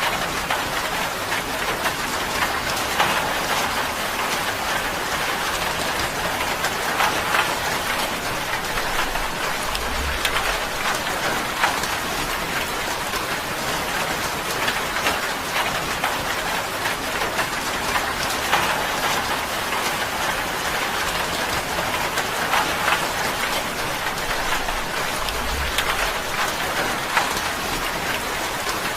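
Steady rain drumming on a tin roof, a dense patter of drops with individual ticks heard through it.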